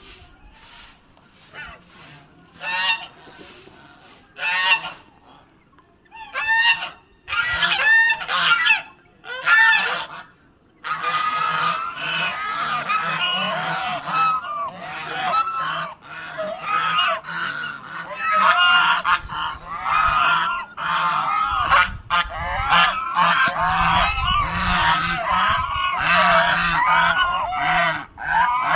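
A flock of poultry calling. There are scattered loud, pitched calls at first; from about eleven seconds in, many birds call over one another in a dense, unbroken chorus.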